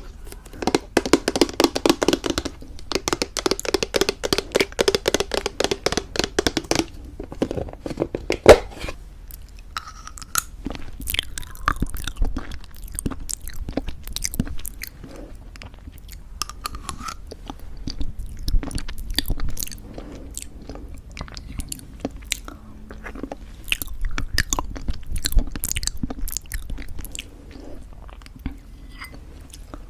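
Close-up crunching and chewing of granola in thick yogurt: dense, rapid crunching for the first eight seconds or so, then softer, sparser chewing. A single sharp click stands out about eight and a half seconds in.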